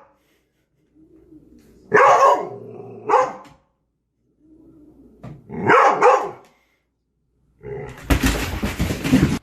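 A dog barking: single barks about two, three and six seconds in. This is followed by a loud rushing noise over the last second and a half.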